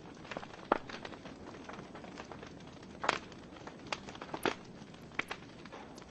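Wood fire in a fireplace crackling: burning logs give off irregular sharp pops and snaps over a soft steady hiss, with a few louder pops.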